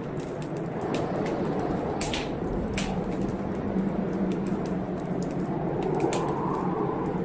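Fireplace wood fire crackling, with irregular sharp pops and snaps over a steady low rumbling background.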